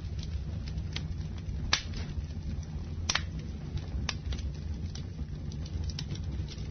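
Campfire burning: a steady low rumble of the flames with irregular sharp crackles and pops of burning wood, the loudest pops about 1.7 and 3 seconds in.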